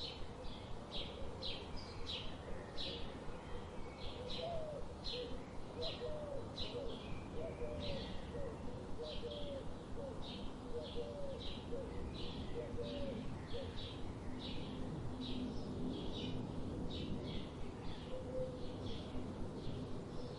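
Birds chirping: short high chirps repeating about twice a second, with a run of short, low cooing notes partway through, over a steady low background hum.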